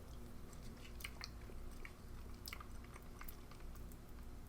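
A person chewing old MRE crackers, a few faint crisp crunches scattered through the chewing.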